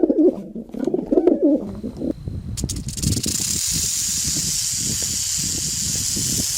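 A pigeon cooing for about two seconds, then a rattlesnake's tail rattle: a steady, even high hiss that starts about two and a half seconds in and cuts off suddenly at the end.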